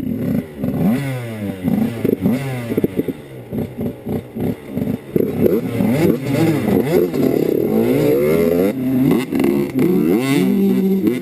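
Dirt bike engine revving up and dropping back over and over as it is ridden, its pitch rising and falling with the throttle and gear changes.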